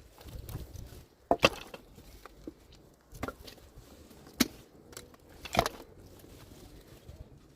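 Sharp knocks of wood being struck, about four in all, a little over a second apart. The first is a quick double knock and the loudest.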